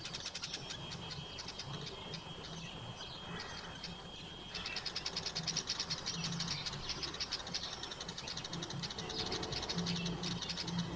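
Small birds chirping in a rapid, busy stream of high chips and twitters. The chirping thins out for a couple of seconds in the middle, then comes back louder and denser.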